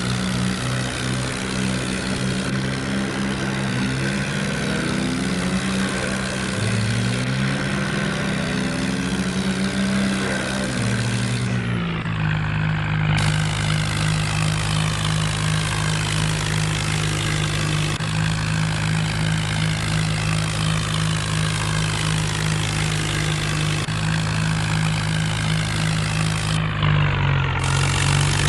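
Kubota tractor's diesel engine running under load, its pitch shifting up and down several times in the first ten seconds, then holding steady after an abrupt change about twelve seconds in.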